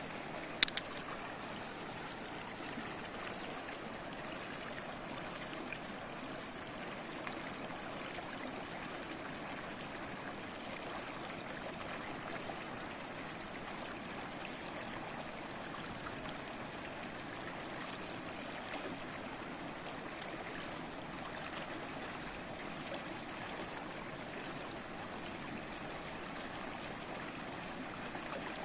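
Small stream babbling and trickling in a steady wash of flowing water, with one sharp click less than a second in.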